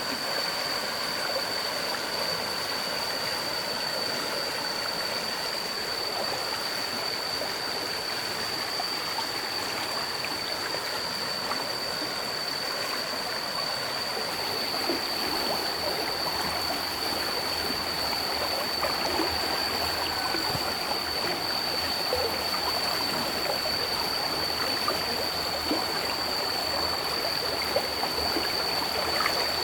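Flowing water, a steady rushing, with a steady high-pitched tone above it and a few faint clicks and splashes in the second half.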